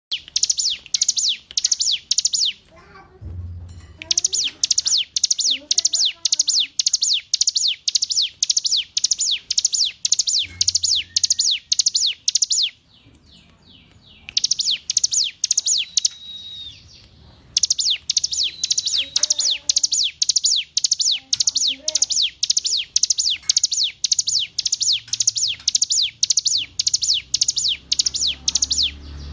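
Ciblek gunung, a prinia, singing a fast series of sharp, high down-slurred chirps, about four or five a second, in long runs broken by short pauses.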